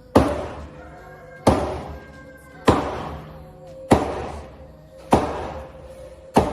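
Cleaver chopping into a whole fish on a chopping board: six heavy, evenly paced chops about a second and a quarter apart, each dying away quickly. Background music plays underneath.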